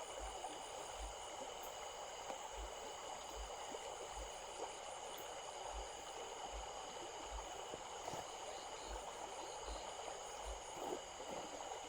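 Small stream running steadily over stones, a continuous rushing and gurgling of water, with steady high-pitched tones held above it.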